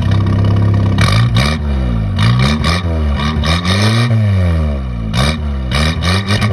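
1981 Toyota pickup's engine, just started after fresh spark plugs were fitted, revved up and down over and over, about once a second.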